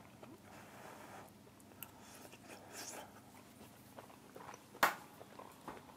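Faint chewing of a mouthful of baked turkey and vegetables, with one sharp tap about five seconds in.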